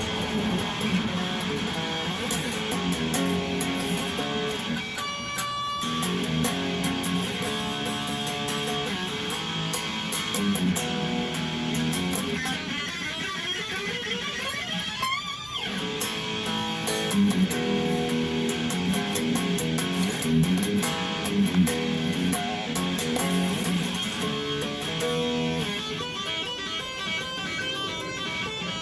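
PRS Tremonti electric guitar played through a Zoom X1 effects unit, strumming chords and picking single notes, with a sweeping glide about halfway through.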